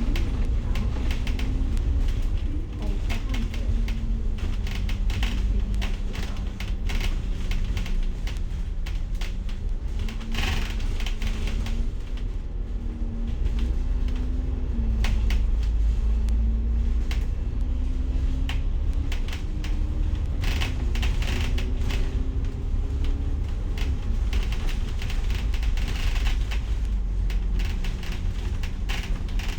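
Inside a moving bus: the engine drones under a steady low rumble, its pitch rising and falling several times as the bus speeds up, shifts and slows, while fittings in the cabin click and rattle over the bumps.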